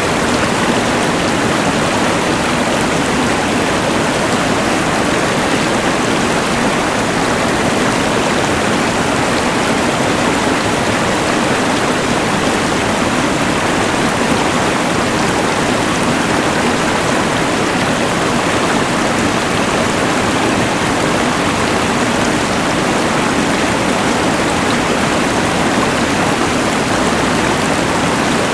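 Rushing mountain river mixed with the hiss of a LectroFan white noise machine: a steady, unchanging wash of water noise.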